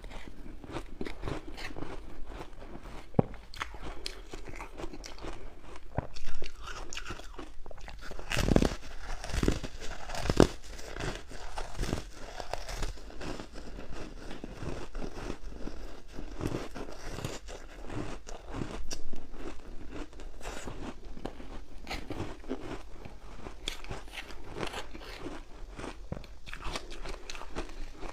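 Close-up crunching and chewing of ice dusted with matcha powder: a dense run of irregular sharp crunches and crackles, with a few heavier bites about a third of the way in.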